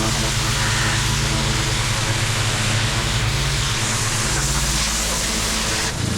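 Engine-driven pressure washer running steadily, its motor humming under the loud hiss of the high-pressure water spray blasting out the joints of a paver patio.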